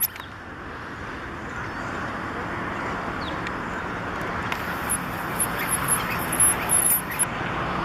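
Outdoor shoreline ambience: a steady wash of noise, with a run of short, high-pitched bird chirps about halfway through.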